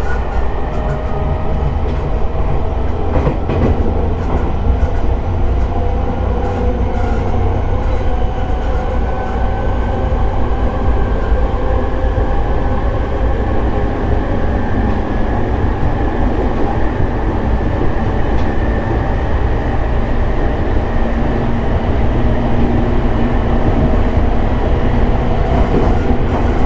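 JR E217 series electric train running at speed, heard from on board: a steady heavy rumble of wheels on rail, with faint motor whine tones that drift slowly in pitch and a few light clicks from rail joints.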